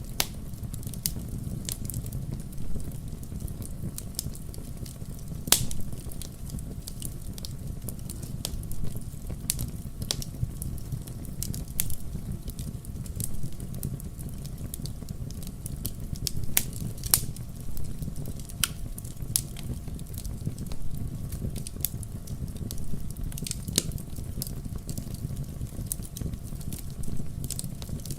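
A fireplace fire crackling: a steady low rumble of flame with irregular sharp pops and snaps, a few of them louder than the rest.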